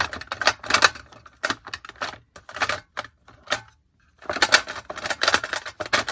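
Small art supplies clicking and clattering against each other as a hand rummages through a container of them, in two spells of rattling with a short pause a little past halfway.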